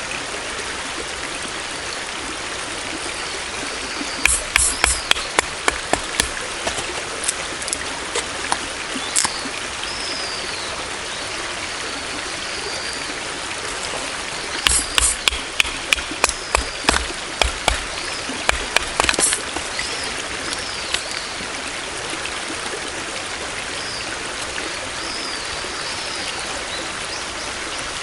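Steady rushing of flowing water, like a stream. Two runs of sharp clicks and snaps come through it, one about four seconds in and one around the middle, with faint short high chirps here and there.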